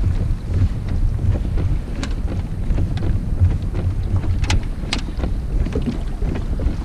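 Strong wind buffeting the microphone in a steady low rumble, over choppy whitecapping water around the kayak.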